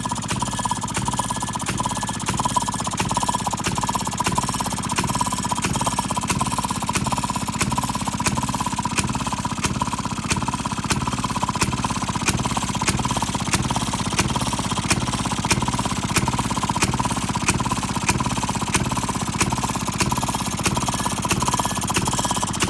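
1936 Maytag Model 92 single-cylinder two-cycle gas engine running at a steady speed of about 1,050 rpm, with a rapid, even firing beat.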